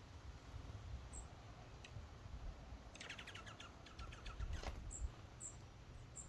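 Small songbirds calling: scattered short, very high chip notes, and about three seconds in a rapid trill lasting about a second. There is a faint sharp click shortly after the trill.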